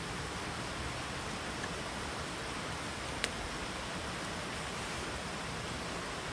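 Steady hiss of water, with one faint click about three seconds in.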